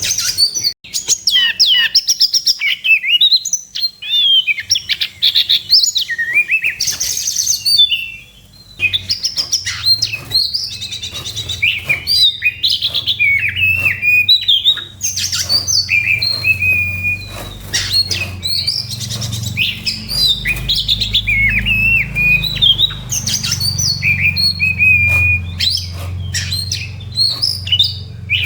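Oriental magpie-robin (kacer) in full territorial fighting song: a quick, varied run of whistled notes, trills and sharp chattering clicks, the kind of song played to provoke other magpie-robins. A low hum runs underneath from about a third of the way in.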